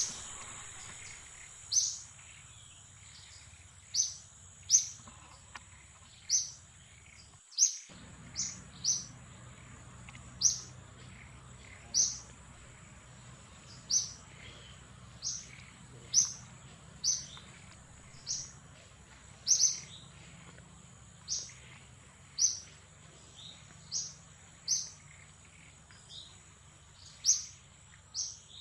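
Short, high-pitched chirps repeating every one to two seconds, over a steady high whine.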